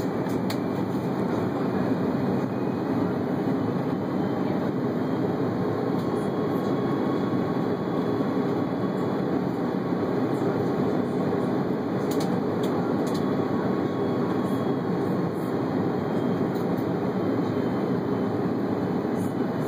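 Steady low rumble inside the cabin of an Airbus A330 airliner, unchanging in level, with a few faint clicks about two-thirds of the way through.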